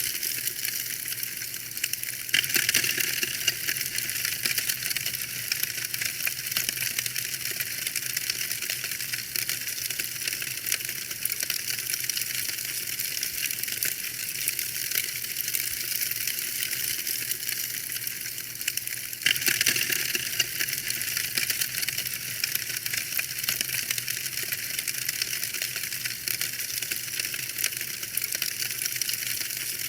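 Wood fire crackling in a fireplace: a dense, steady run of small sharp pops and snaps over a soft hiss, briefly louder about two seconds in and again about twenty seconds in.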